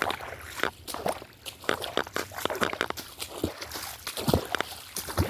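Footsteps on the forest floor: a string of irregular steps and scuffs.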